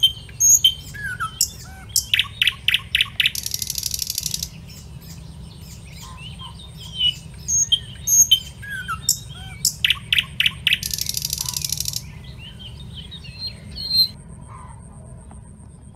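Small birds chirping and calling. Twice, about seven seconds apart, a run of rapid clicks leads into a harsh, high buzzing trill, over a thin steady high tone and a low rumble.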